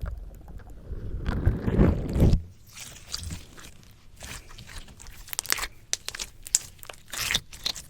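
Slime squished against a microphone: a low, muffled rumble of pressing for the first two seconds or so, then an irregular scatter of sticky pops and crackles.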